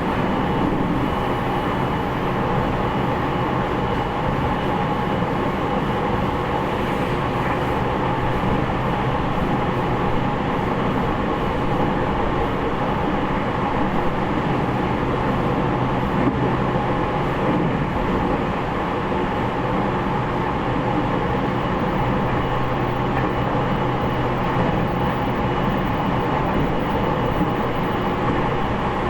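Interior running sound of a JR East E501 series commuter train, recorded in motor car MoHa E501-8: a steady rumble of wheels on rail and traction equipment, with a faint steady high tone and some air-conditioning noise underneath.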